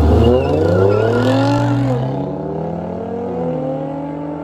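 Cars in a street race accelerating hard through the gears: the engine note rises, drops at a shift about two seconds in, then rises again, growing fainter as the cars pull away.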